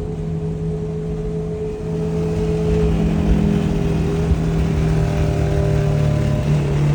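Sport motorcycle with a full titanium exhaust cruising at highway speed. The engine note holds a nearly steady pitch and grows a little louder about two seconds in.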